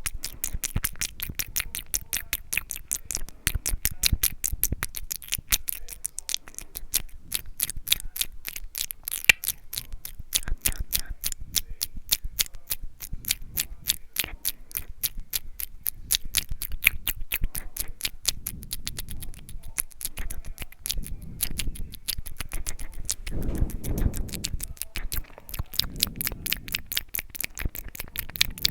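Close-miked ASMR mouth sounds: rapid wet clicks and smacks of tongue and lips, several a second, going on without a break.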